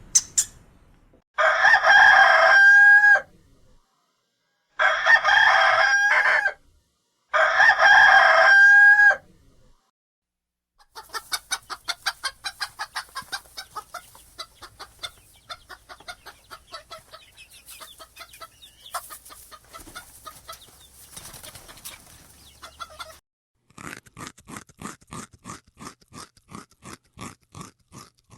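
A rooster crows three times, each crow about two seconds long and ending on a slight upturn in pitch. Then chickens cluck in quick, busy bursts for about twelve seconds. Near the end comes a steady run of sharp crunching clicks, about three a second.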